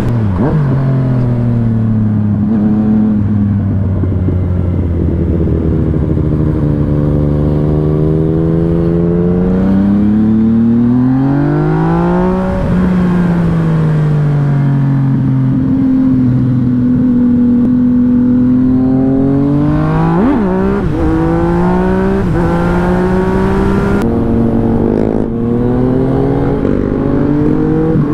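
Yamaha MT-09 SP's three-cylinder engine under way, its pitch climbing slowly as it pulls, peaking about halfway through and dropping back, then a quick sharp rise and fall about two-thirds of the way through before settling into a steady cruise.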